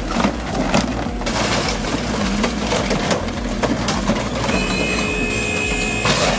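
Heavy machinery working, with a dense run of cracking and crunching as material is crushed.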